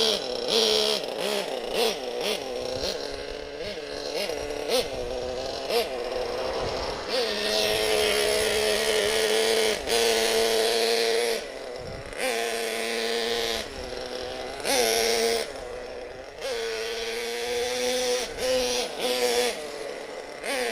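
Single small nitro engine of a Hot Bodies Lightning GTX2 RC monster truck, revving up and down in repeated throttle bursts: quick blips at first, then longer high-revving runs. Only one of the truck's two engines is running, and its high-speed needle is set very rich, so it lags in power.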